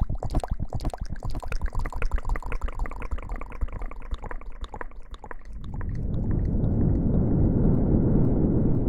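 Quick wet squishing strokes, about eight a second, like hands lathering soapy hair. About five and a half seconds in they give way to a steady rushing noise that swells up and holds.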